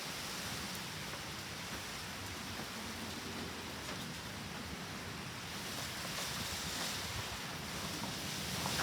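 Steady rushing noise of typhoon rain and wind, an even hiss with no breaks.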